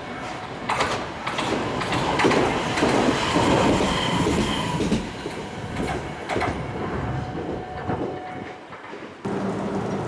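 Tram running on its rails, with wheel-on-rail rumble that swells and eases and scattered clicks from the wheels. A brief high squeal comes about four seconds in, and a steady low hum starts near the end.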